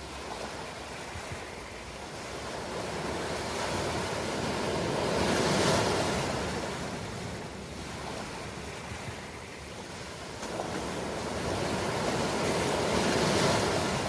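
Ocean waves breaking on a shore, two swells of surf about seven seconds apart, each building to a peak and washing back.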